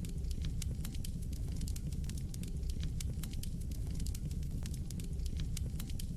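Fire burning in a fireplace: many quick, sharp crackles and pops over a steady low rumble.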